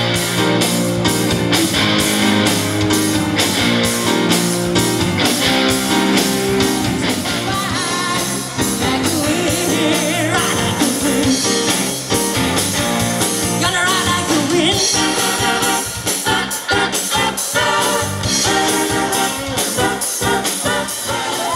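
Live rock band playing an up-tempo song over a steady drumbeat, with electric guitar and bass.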